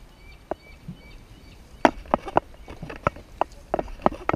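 Sharp wooden knocks and clacks, a single one about half a second in, then a quick irregular run of them from about two seconds in: dragon boat paddles knocking against the boat and each other.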